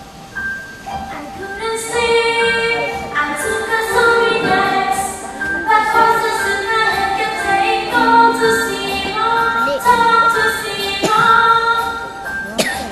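A song from a stage musical: a short run of light, repeated accompaniment notes, then from about two seconds in a woman's voice sings over the instrumental accompaniment.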